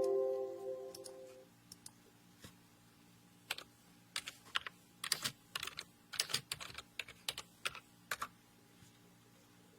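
Computer keyboard typing: an irregular run of key clicks from about a third of the way in until near the end. At the start a pitched tone fades out over about a second and a half.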